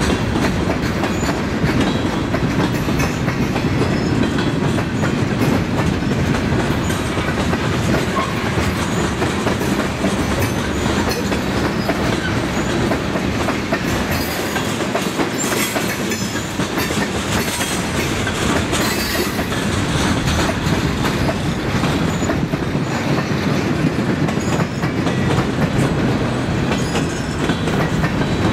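Freight train of boxcars and tank cars rolling steadily past, its steel wheels clicking over the rail joints in a continuous rumble.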